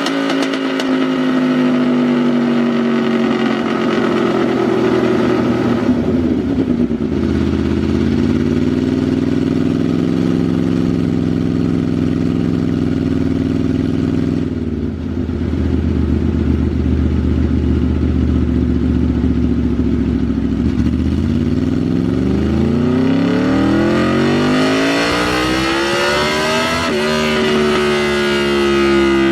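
2010 Aprilia RSV4 Factory's V4 engine running on a dyno through a Racefit slip-on exhaust. The revs drop about six seconds in, hold low and steady, then climb steadily for about six seconds near the end in a dyno pull.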